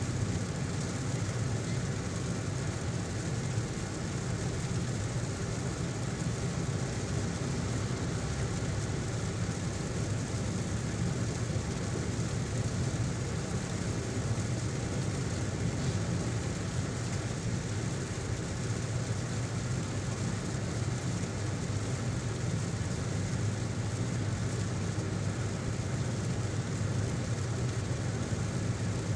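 A car driving in heavy rain: a steady low engine and road hum under an even hiss of rain and wet tyres.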